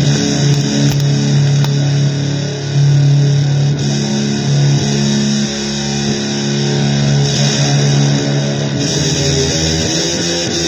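Electric guitar played with heavy distortion in a noisy blues style, low notes held for a second or more at a time under a dense hiss.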